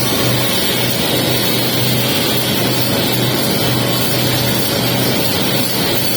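Welding arc on a pipe capping pass, crackling steadily with a constant low hum underneath.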